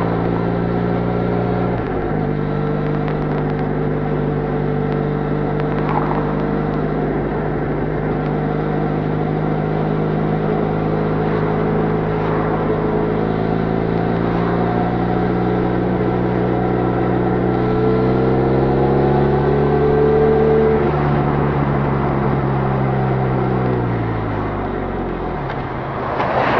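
Benelli Leoncino 500's parallel-twin engine through its stock exhaust, heard from the moving bike. It runs steadily and drops in pitch suddenly about two seconds in, as on an upshift. Later the revs climb for a few seconds, then fall away to low revs near the end.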